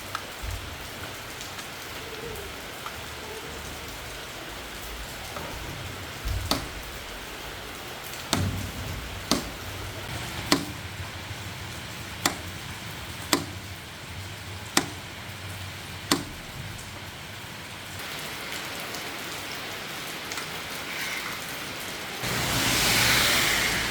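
Steady heavy rain falling, with a series of about eight sharp taps or knocks spaced a second or so apart through the middle, and a louder surge of rain noise near the end.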